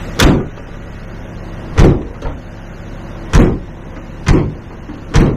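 A series of sharp, loud knocks or bangs, five in all, spaced about a second to a second and a half apart, with a fainter knock just after the second one.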